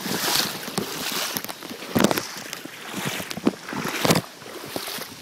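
Floodwater sloshing and splashing around a person wading chest-deep, with two sharper splashes about two and four seconds in. The sound is picked up through a phone sealed in a plastic bag.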